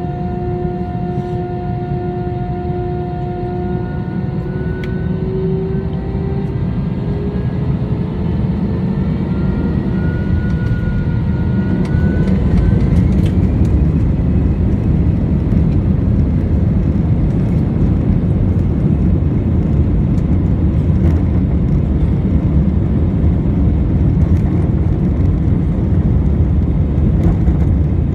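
Airbus A320 jet engines spooling up for takeoff. A whine rises in pitch over the first dozen seconds and fades into a steady, loud low roar as the thrust builds and the takeoff run goes on.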